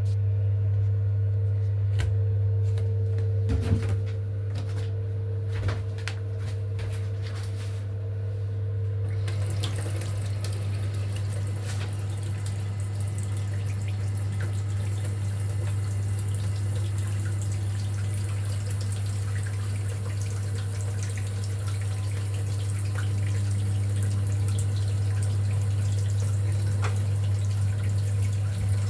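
Water running with a hiss that starts about nine seconds in, over a steady low hum.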